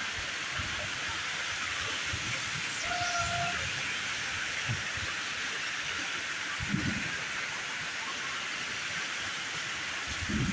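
Heavy rain pouring in a severe thunderstorm, a steady hiss, with a few brief low thumps scattered through it.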